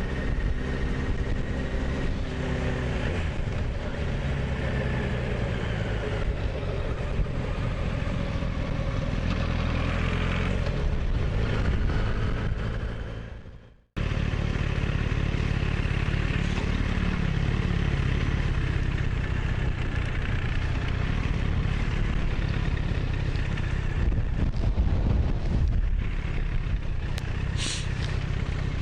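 Motorcycle engine running under way, a Yamaha XJR1300's air-cooled inline-four, with road and wind noise; its pitch shifts as the revs change. About 13 seconds in it fades out and cuts straight to another stretch of the same riding sound.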